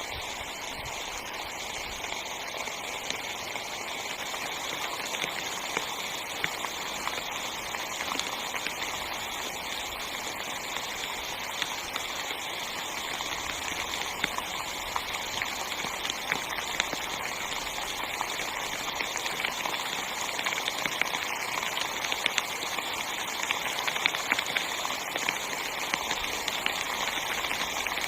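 Heavy rain pattering on tent fabric: a steady dense hiss full of individual drop hits, growing a little louder toward the end.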